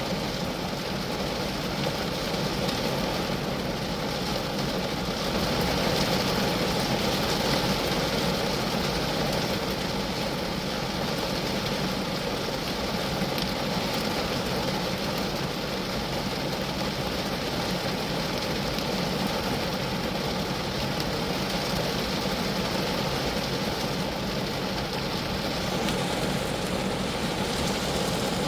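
Rain falling on a Geo Metro car, a steady, even patter of drops with no let-up.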